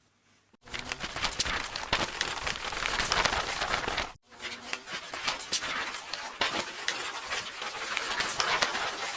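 Paper rustling and crackling, as of book pages being handled and torn, in two long stretches split by a brief break about four seconds in.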